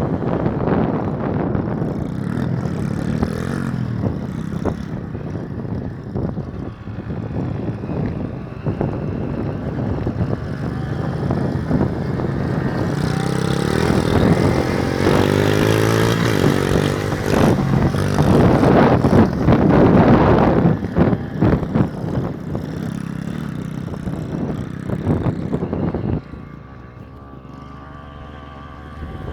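Small-capacity motorcycle engine running while riding, revving up and down with rising and falling pitch through the middle. About three quarters of the way through it drops suddenly to a quieter, lower running.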